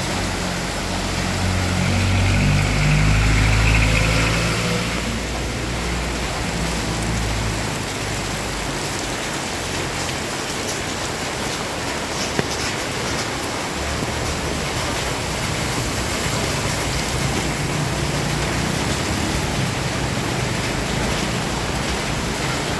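Heavy rain pouring steadily, with a motor vehicle's engine running low underneath: the engine is strongest in the first five seconds, fades, and comes back from about two-thirds of the way through.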